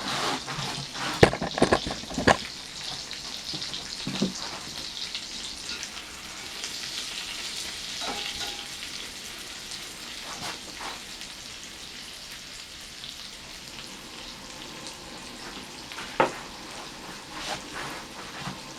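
Burger sizzling as it fries in a pan, a steady hiss. A few sharp knocks in the first couple of seconds and one more near the end.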